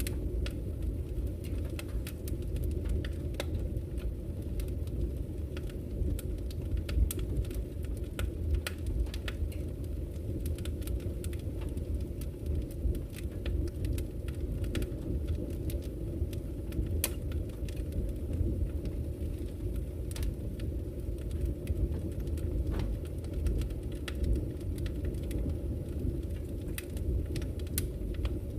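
Wood fire burning in a fireplace: a steady low rumble of the flames with frequent sharp crackles and pops of the burning logs, one louder pop about seven seconds in.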